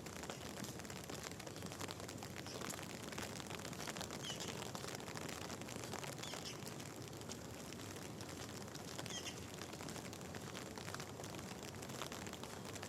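Steady rain falling, a dense patter of drops. A bird chirps briefly three times, about 4, 6.5 and 9 seconds in.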